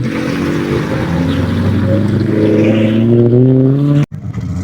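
A car engine accelerating, its note rising steadily for about four seconds; then a sudden brief break, after which it comes back at a lower pitch.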